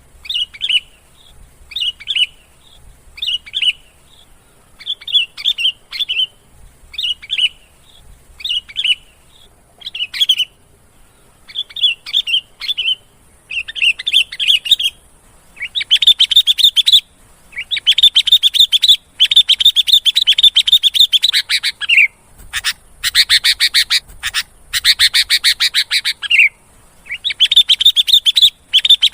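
Sooty-headed bulbul calling: short bubbly phrases about once a second, turning after about fifteen seconds into long runs of rapid chattering notes, as used for a bulbul lure call.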